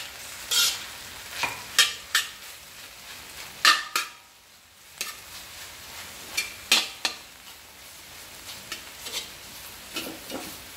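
Food frying in a hot pan with a steady sizzle while a spatula is stirred through it, scraping and clacking against the pan at uneven intervals. The sizzle dips briefly about four seconds in.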